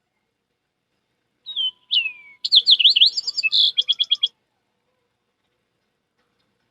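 A songbird-like song: a short note, a long downward slur, then a quick series of rising-and-falling notes ending in a fast trill, lasting about three seconds from a second and a half in.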